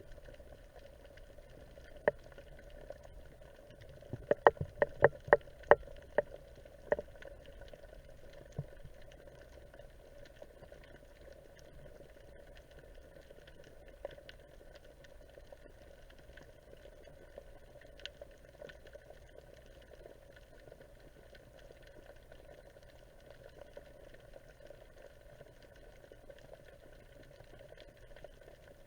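Underwater ambience: a steady low hiss and hum, with a quick run of sharp clicks about four seconds in and a few single clicks after.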